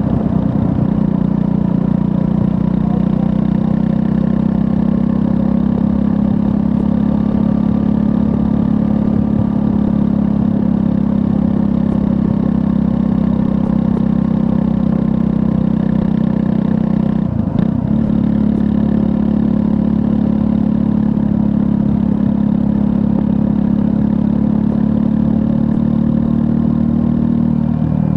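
Triumph Scrambler 400 X's 398 cc liquid-cooled single-cylinder engine running steadily under way, with one short break in the engine note about two-thirds of the way through.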